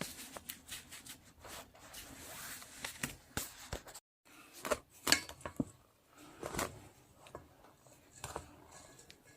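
Soft rustling and scattered light clicks of hands mixing wormwood greens with cornmeal and flour so the flour coats the leaves. The sound drops out completely for a moment about four seconds in.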